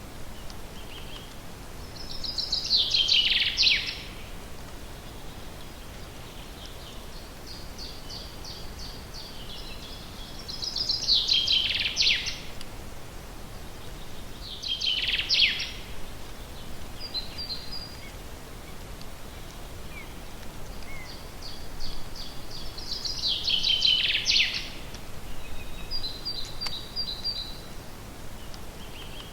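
A songbird singing the same short song about four times, each phrase a fast trill that drops in pitch at the end, with a few short chirps between phrases over a steady faint background hiss.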